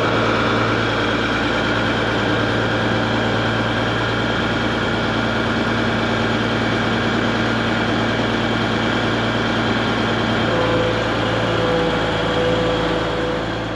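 Engine running steadily at idle, with a low, even hum; about ten and a half seconds in, its note shifts as a higher tone comes in.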